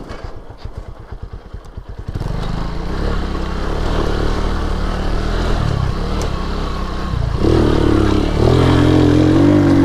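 Single-cylinder 150cc four-stroke engine of a Lifan KP Mini 150 pit bike ticking over at low revs with distinct firing pulses. About two seconds in it is opened up and runs under load, then climbs to higher revs about seven and a half seconds in as the bike gets going again.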